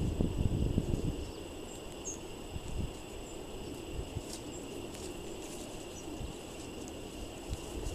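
Gusty wind buffeting the microphone, heaviest in the first second, with scattered short high chirps from small songbirds and a steady high insect-like whine underneath.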